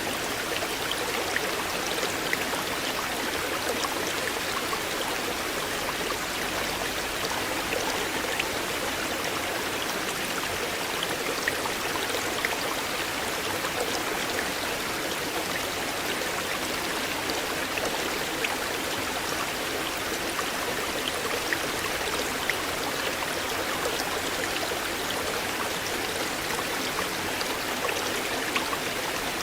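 Shallow river flowing steadily with a continuous babble, with many small splashing ticks scattered through it.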